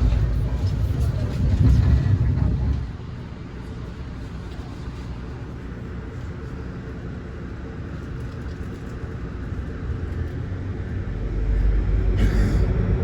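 Amtrak passenger train running, heard from inside the coach: a heavy low rumble for the first few seconds that eases to a steadier, quieter running noise, then builds again near the end with a short clatter.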